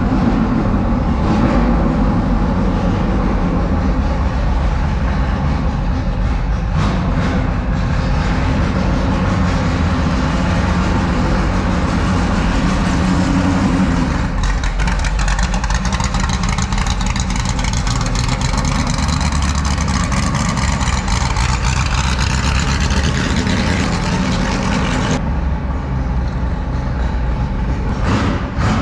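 Car engine running, loud and steady, with a brief rise in pitch a little before the midpoint.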